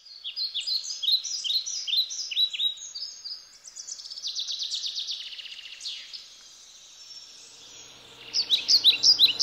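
Songbirds singing: a series of quick down-slurred chirps, a fast trill in the middle, then more chirps near the end.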